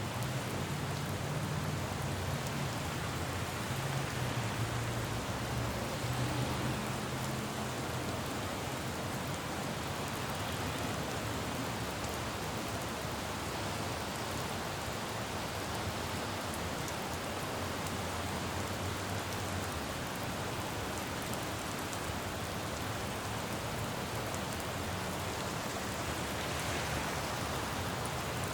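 Steady rain falling on a city road, with a low rumble of traffic that is louder in the first several seconds and then fades.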